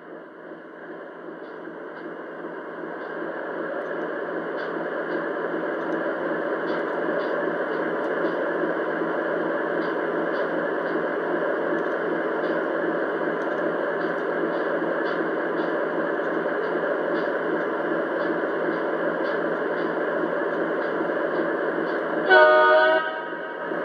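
Lionel Legacy ES4400AC O-scale model locomotive's RailSounds 5 diesel engine sound, building over the first few seconds as the simulated prime mover starts up and then running steadily. A short horn blast sounds near the end.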